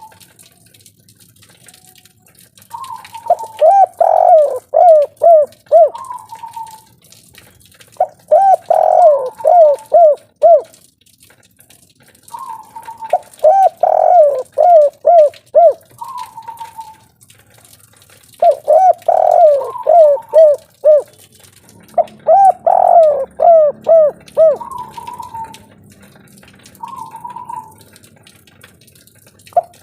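Derkuku (tekukur) dove singing its 'kuk 3' cooing song: phrases repeated about every five seconds, each a higher opening coo followed by a quick run of about five lower, falling coos.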